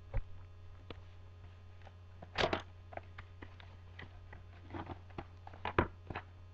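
Packaging of a baseball card box being handled: scattered crinkles and taps, with a short rustle about two and a half seconds in and a few more near the end, over a steady low hum.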